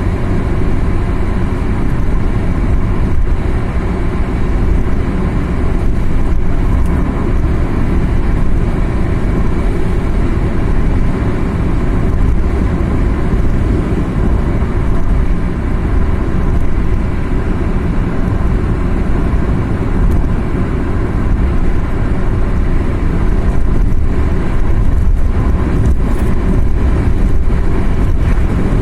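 Car driving along a mountain road: a steady, deep rumble of engine and tyre noise.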